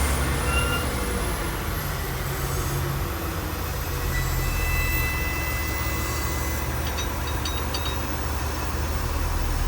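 Steady low drone of airliner pushback machinery, the tug and aircraft running together. Over it a faint high whine climbs steadily in pitch for the first several seconds, and a few faint ticks come near the end.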